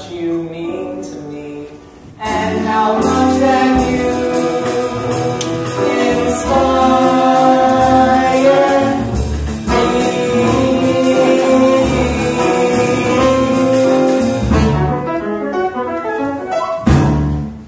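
Musical theatre ensemble singing together with a small pit band of flute, saxophone, violin, cello, bass and drums. It swells to full volume about two seconds in and holds long sung notes. The music ends a number on a final loud chord near the end.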